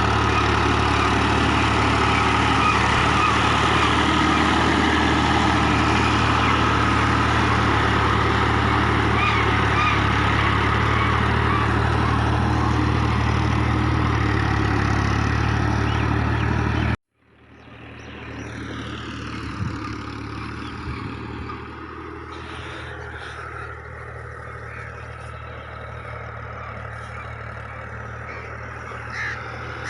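Fiat 480 tractor's diesel engine running steadily under load, then cut off abruptly about halfway through. Quieter outdoor ambience follows, with a few crow caws near the end.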